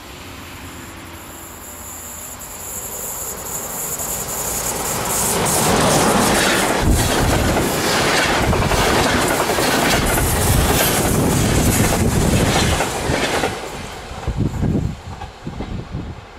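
An electric train on a main line passing close by: the rumble of its wheels on the rails swells over several seconds to a loud, rhythmic clatter of wheels over the rail joints, then drops off with a few last axle knocks as the final cars go by.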